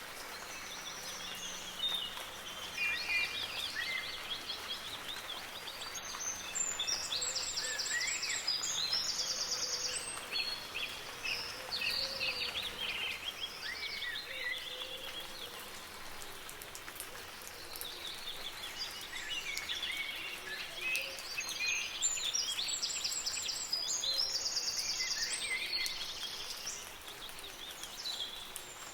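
Several songbirds chirping, trilling and whistling over the steady hiss of soft rain. The same run of calls, with a rapid high trill, comes round twice about fourteen seconds apart, as in a looped recording.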